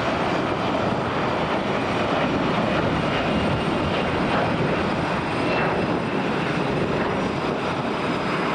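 Airliner's engines at takeoff power as it climbs out from the runway, a steady loud rushing noise with a faint high whine.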